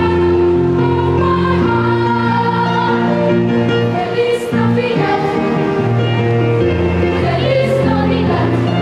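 Children's choir singing a Christmas carol with musical accompaniment, in long held notes.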